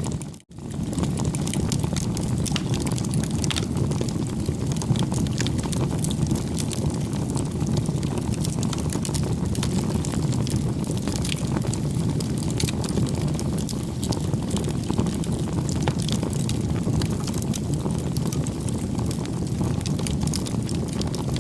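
Campfire crackling: a steady low rush of burning wood with many small pops and crackles scattered through it, cutting out for a moment about half a second in.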